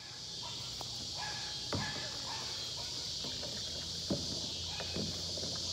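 Steady high-pitched outdoor hiss that fades in at the start, with a few light knocks and taps scattered through it.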